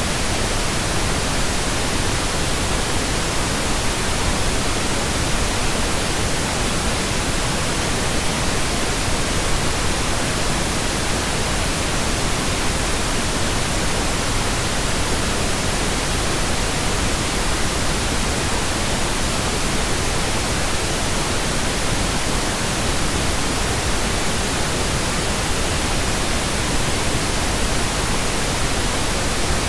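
Steady synthetic pink noise: an even, unchanging hiss spread across the whole range, generated digitally.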